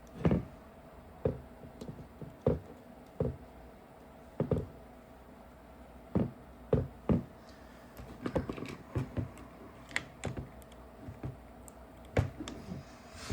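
Irregular light clicks, taps and knocks of small parts being handled while the wiring is tucked into a paintball marker's frame and the grip is fitted.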